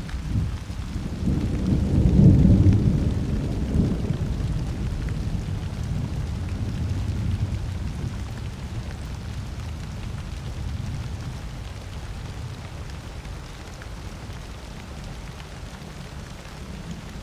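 Thunderstorm: a roll of thunder swells to its loudest about two seconds in and rumbles away over several seconds, under steady rain.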